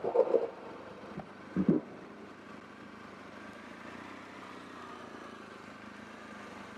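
A motorcycle engine running steadily, heard from the rider's position, with two short, louder sounds in the first two seconds.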